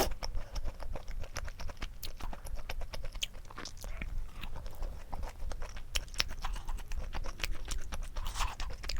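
Close-miked chewing of mala rose tteokbokki: a steady run of irregular wet mouth clicks and smacks.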